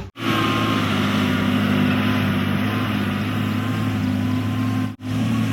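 Heavy diesel vehicle engine running steadily, with a thin whine above the engine note. The sound cuts out abruptly twice, just after the start and about five seconds in.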